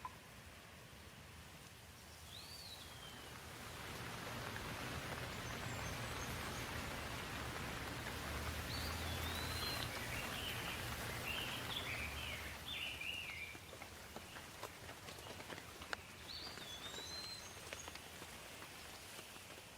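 Steady rain falling, swelling louder for about ten seconds in the middle and then easing off, with a few sharp drips. Birds chirp several times over the rain.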